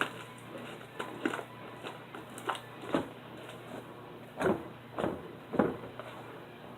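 Glossy glue slime being stretched and kneaded by hand, giving a string of soft, irregular sticky pops and squelches, the strongest about halfway through and again near the end.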